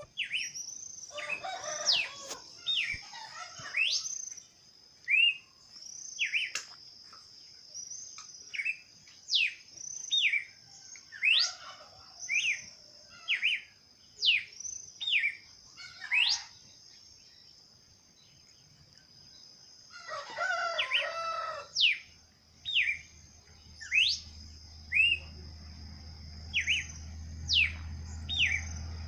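Songbirds singing: a string of short, clear whistled chirps, each a quick sweep up or down in pitch, coming about once a second over a steady high-pitched tone. Rougher, lower calls break in around a second in, near the middle, and about two-thirds of the way through.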